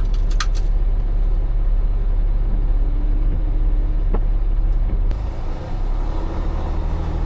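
Semi truck driving down the road, heard from inside the cab: a steady low engine and road rumble, with a few sharp clicks right at the start.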